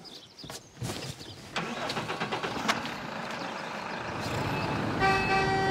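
A few clicks, then a farm tractor's engine starts and runs steadily. Near the end a steady electronic beep tone comes on.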